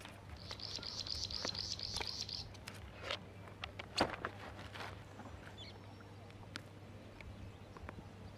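A bird's rapid run of high chirps, about four a second, lasting about two seconds near the start. Around it are faint clicks and rustles of fishing line and bait being handled, the sharpest click about four seconds in.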